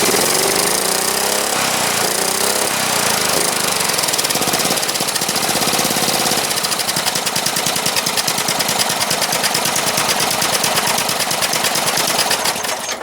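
Lawn mower engine running through a homemade exhaust of welded 90-degree bends meant to act as a muffler, giving a rapid, rasping exhaust note that sounds like a racing lawnmower. The revs rise and fall in the first few seconds, then hold steady, and the sound cuts off sharply near the end.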